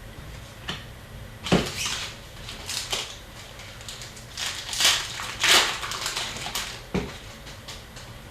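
Hockey trading cards being handled and sorted, with a series of dry rustles and sliding sounds and a few light taps, the loudest rustles about five seconds in.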